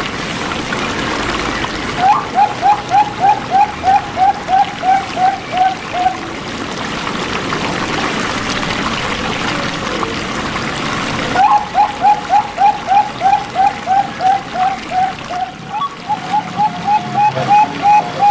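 Zebra dove (perkutut) cooing in quick runs of short, evenly repeated notes, about three a second, three runs in all, over a steady sound of trickling running water.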